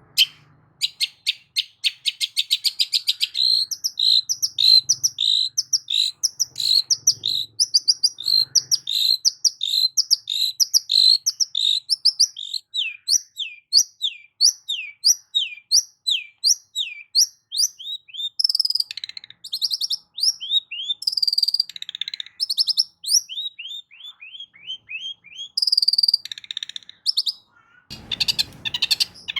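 Long-tailed shrike (cendet) song: a fast, continuous series of short chirping notes, most of them sliding downward and repeated several times a second, mixed with harsher buzzy calls. A harsh, noisy burst comes near the end.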